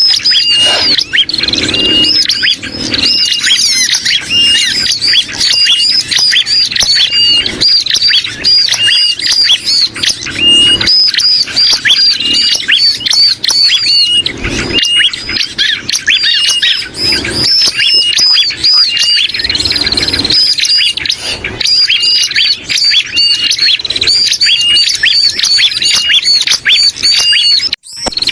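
Bar-winged prinias (ciblek) calling, layered with the agitated and distressed calls of sooty-headed bulbuls (kutilang) in a bird-trapping lure mix. It is a loud, unbroken chatter of short chirps repeated rapidly, with a brief break near the end.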